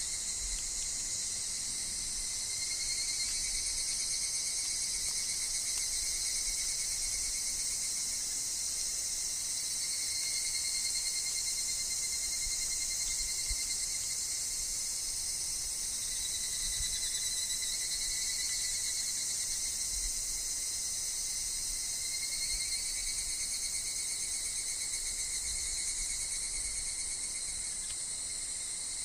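Steady chorus of insects, among them higurashi evening cicadas, shrilling continuously in high pitch, with a lower steady tone that swells and fades every few seconds.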